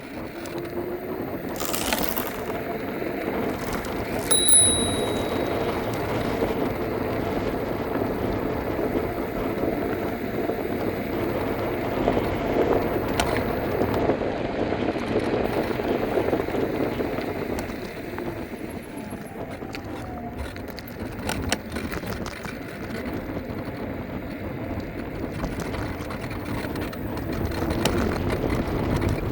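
Steady rush of wind and rolling noise from riding an electric scooter, with a single short high ding about four seconds in.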